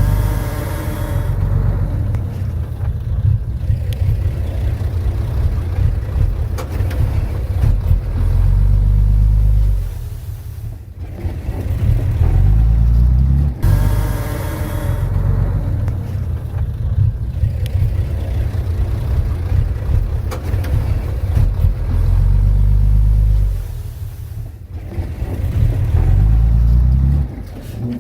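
Komatsu D31P bulldozer's diesel engine working under load, its pitch climbing and falling back in repeated cycles, easing off twice, with one sharp knock a little past halfway.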